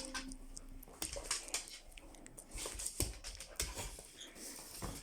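Dog moving about at play: scattered light taps and clicks, with a short steady whine right at the start.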